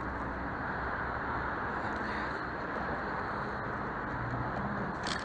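Steady vehicle road and engine noise as picked up by a car dashcam, with a short click near the end.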